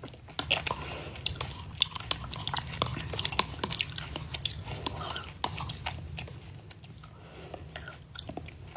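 Close-up chewing of a cereal yogurt, with irregular crunches and small wet clicks.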